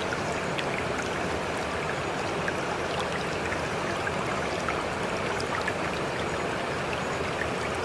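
Steady rush of flowing floodwater, an even sound with faint scattered drips through it.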